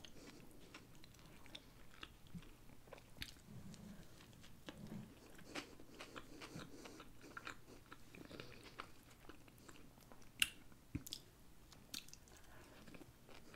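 Close-miked chewing and biting of a soft bread roll with barbecue sauce: quiet, wet mouth clicks and smacks, with one sharper click about ten seconds in.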